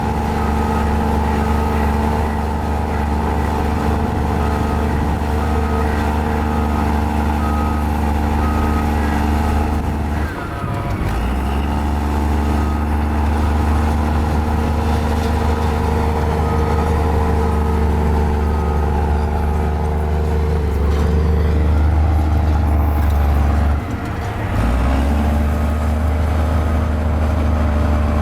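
Mini Komatsu bulldozer's diesel engine running steadily under load, with its reversing alarm beeping in repeated even pulses for several stretches. The engine note dips briefly twice, about a third of the way in and again near the end.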